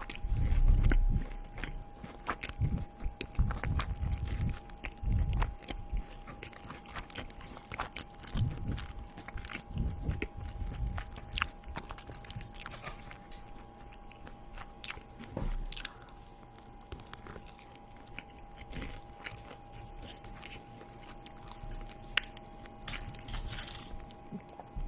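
A person chewing and biting food close to the microphone, with crunching and many small clicking mouth sounds. The chewing is heaviest in the first few seconds and again around eight to eleven seconds in.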